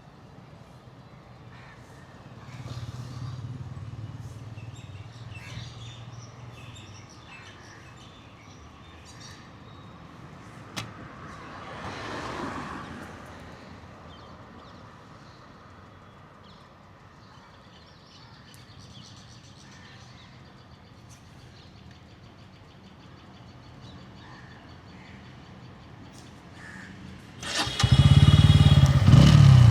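Quiet street background with faint passing vehicles and bird chirps; near the end the Bajaj Pulsar N160's single-cylinder engine starts up suddenly and runs loud and close.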